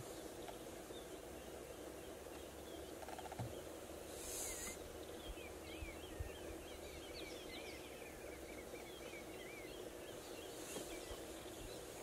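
Faint bush ambience with small birds twittering: a quick run of short, high chirps sets in about five seconds in and lasts several seconds.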